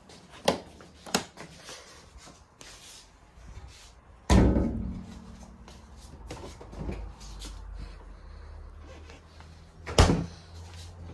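Scattered knocks and thumps: two light knocks in the first second or so, a heavy thump about four seconds in that rings on briefly, and another sharp thump near the end.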